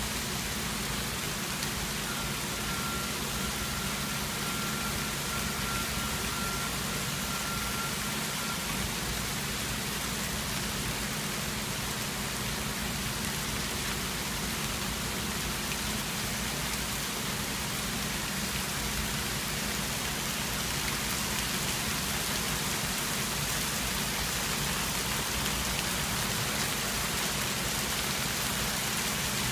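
Hail falling steadily, a dense even hiss of hailstones pelting surfaces, growing a little louder in the second half.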